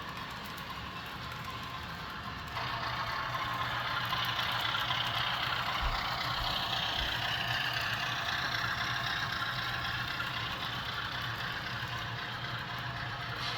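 HO scale model Sharknose diesel locomotive running along the track: a steady engine-like drone over a hiss of rolling noise, stepping up louder about two and a half seconds in.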